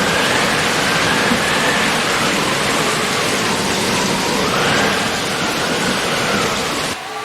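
Heavy rain pouring down in a dense, steady hiss, with a faint wavering whine running underneath.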